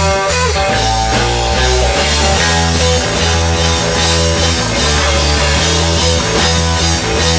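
Rock band playing live with electric guitar and bass, an instrumental passage of steady held notes.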